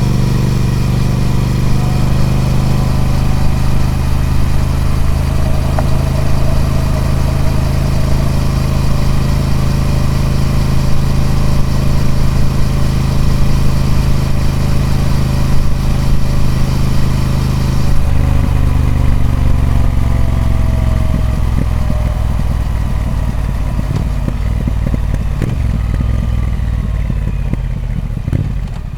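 Triumph Speed Twin 1200's 1200cc parallel-twin engine through its stock exhaust, running steadily under way. About two-thirds in there is a short break in the note, then the engine pitch falls steadily as the bike slows, turning into a lower, uneven beat near the end.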